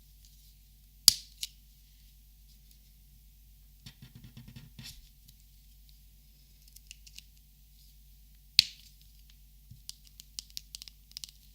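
Plastic Copic markers being handled: two sharp cap clicks about a second in and again past eight seconds, a brief soft rattle of markers around four seconds, and a run of light plastic ticks and taps near the end.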